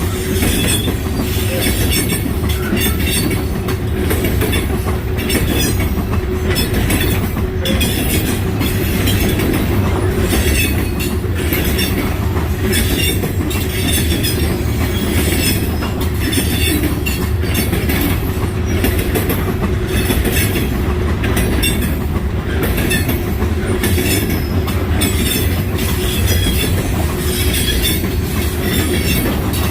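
Freight train cars rolling past: a steady loud rumble with a regular clickety-clack of wheels over rail joints and a steady squealing tone from the wheels.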